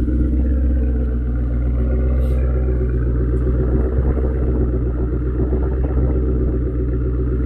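The 2000 Maserati 3200 GT's 3.2-litre twin-turbo V8 idling steadily shortly after a cold start, heard from the rear of the car.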